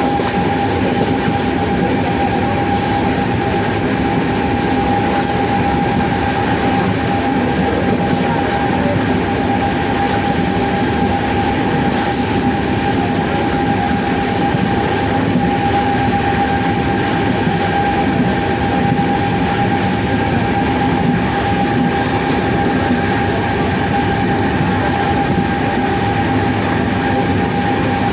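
WAP-7 electric locomotive running at a steady speed. Its traction motors give a constant high whine over the continuous rumble of the train, with no change in pitch or level.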